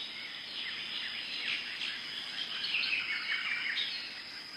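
Rainforest ambience: many small birds chirping in quick, short calls, busiest about three seconds in.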